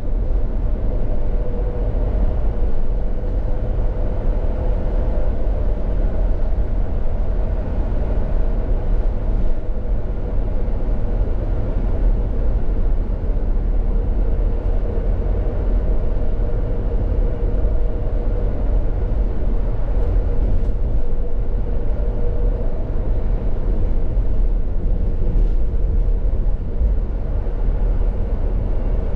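Steady low rumble with a faint continuous hum, like a vehicle running.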